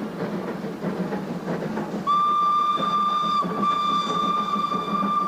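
Steam train running, then about two seconds in a steam locomotive whistle sounds one long, steady single note, broken briefly once.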